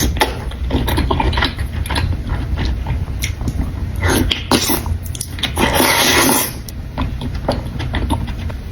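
Close-miked eating of buldak ramen noodles: wet mouth clicks and chewing, with repeated slurps and a longer noisy slurp of about a second roughly six seconds in.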